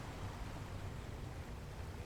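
Steady, quiet rush of ocean surf washing on a beach, with a low rumble of wind on the microphone.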